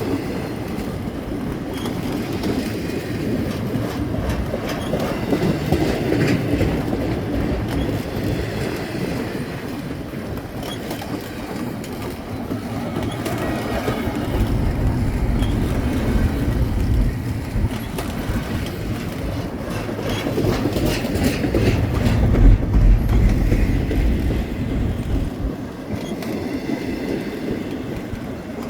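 Slow double-stack container freight train rolling past, with the steady rumble of its wheels on the rails. The low rumble swells heavier twice, around the middle and again near the end.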